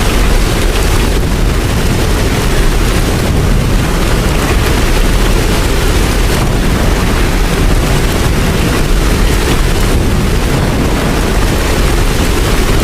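Heavy rain falling steadily, with a constant deep rumble underneath.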